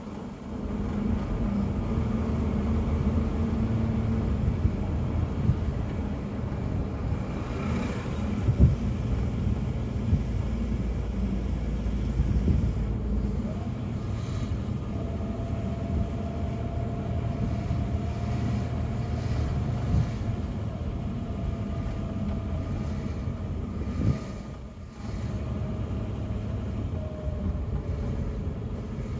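A 1964 Mercedes 220 SB's straight-six engine running steadily as the car drives along, heard from inside the cabin with road noise. The engine note drops away briefly about five seconds before the end, then picks up again. A faint high whine rides along through the second half.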